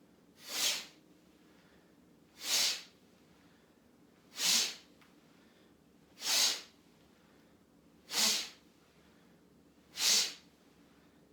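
A person doing qigong breath work, exhaling sharply and forcefully six times, about once every two seconds. Each breath out is a short hiss.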